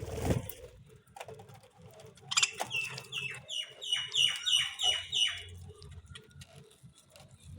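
Lovebird calling: a quick run of about ten short chirps, each falling sharply in pitch, about three a second, after a short thump at the start.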